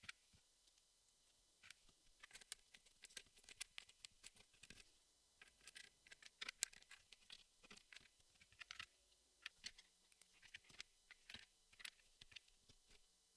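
Jigsaw puzzle pieces being handled: faint, irregular clicks and taps as pieces are picked up, tried and set down, coming in clusters with short pauses between.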